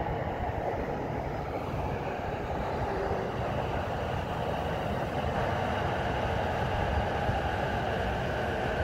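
Saikyo Line electric commuter train running along the tracks below, a steady noise of wheels on rail and motors, slightly louder in the second half.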